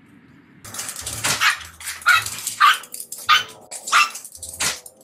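A small dog barking: about six short, high barks, spaced under a second apart.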